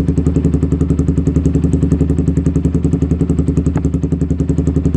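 Yamaha Vixion's single-cylinder engine idling through an aftermarket exhaust, a steady, even, rapid pulsing.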